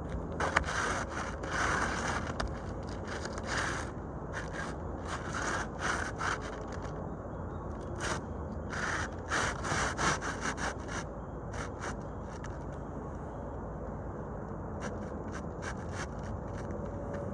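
Irregular scraping and rubbing on asphalt roof shingles as they are worked loose for a repair, in uneven strokes for about the first ten seconds, then steady background noise.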